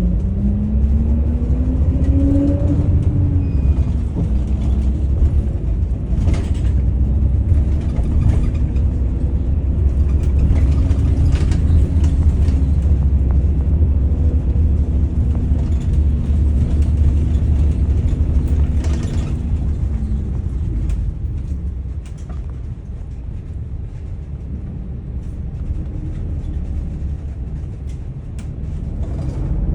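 Daewoo FX116 coach bus's diesel engine under way. A rising whine over the first few seconds as it accelerates gives way to a steady drone over a deep rumble. About twenty seconds in the engine eases off and goes quieter, with occasional short rattles throughout.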